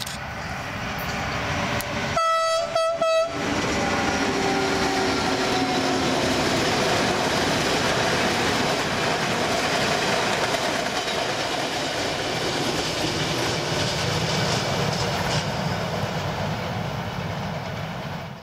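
Electric Regio passenger train sounds its horn in a short, broken blast about two seconds in, then passes close by with a steady rumble and clatter of wheels on the rails that dies away at the end.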